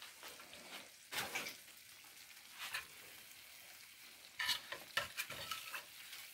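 Battered Oreos frying in shallow oil in a stainless steel pan with a faint steady sizzle, while a metal spoon scrapes and turns them against the pan. The scrapes come about a second in, again briefly near the middle, and most often from about four seconds in.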